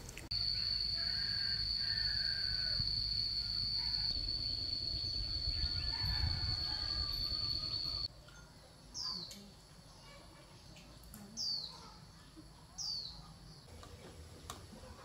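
A steady high-pitched whine for about eight seconds that cuts off suddenly, then three short bird chirps, each sliding downward, a second or two apart.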